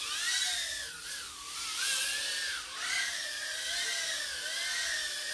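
Mobula 6 tiny whoop's four 19000kv brushless motors whining in flight, the pitch rising and falling over and over as the throttle changes through the turns.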